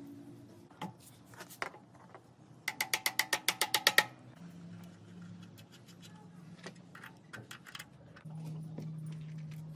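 A quick run of about ten sharp, ringing metallic ratchet-like clicks over just over a second, with a few scattered clicks before and after over a low steady hum.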